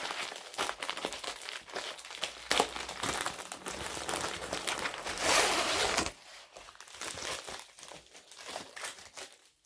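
Packaging of a diamond painting kit crinkling and rustling as it is handled and opened, with many small crackles and a louder rustle about five seconds in; after about six seconds the handling goes much quieter.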